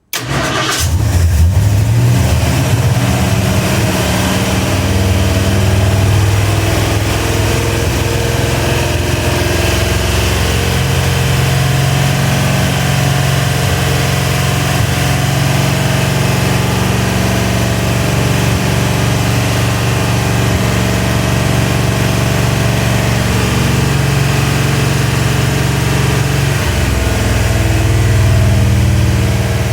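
Rebuilt Ford 351 Windsor V8, with Edelbrock heads, a mild Howards cam and an Autolite 4300 carburettor, catching suddenly on its first start after the rebuild and then running steadily for break-in. The engine note swells slightly near the end.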